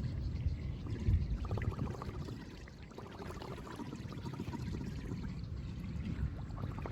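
Floodwater pouring down through a cleared drain grate: a steady rush of water that eases briefly partway through.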